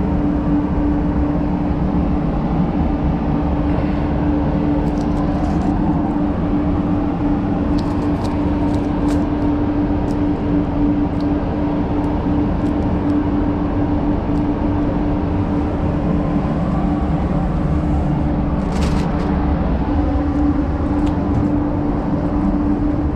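Steady roar of a paint spray booth's ventilation fans with a constant hum, with a few faint clicks from masking tape being handled.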